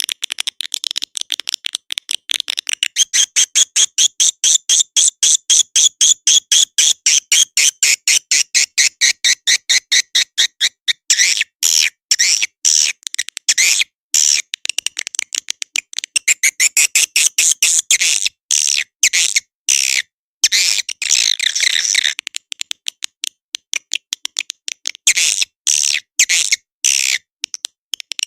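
Recorded swiftlet calls played as a lure (suara panggil walet) to draw swiftlets to a nesting house: rapid, dry twittering chirps and clicks. The chirps run as a fast, even stream for about the first ten seconds, then break into choppier bursts with short pauses.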